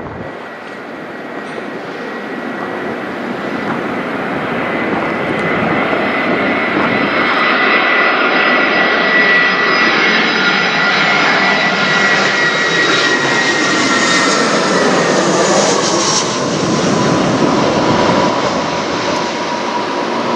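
Jet airliner flying low overhead: the engine noise and its whine build to a peak, then the whine drops in pitch as the plane goes past, about two-thirds of the way through.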